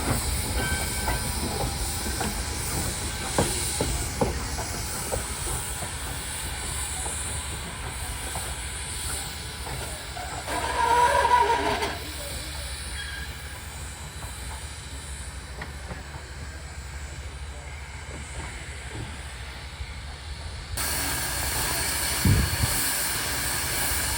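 Train rolling on the rails: a steady rumble with hiss, and wheels clicking over rail joints in the first few seconds. A brief high tone about ten seconds in is the loudest moment. Near the end the sound jumps louder and there is a single thump.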